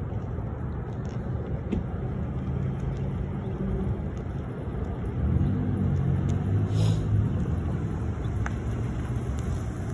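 Low traffic rumble with a Ford police SUV's engine as it pulls out and drives closer, its engine note growing louder about halfway through.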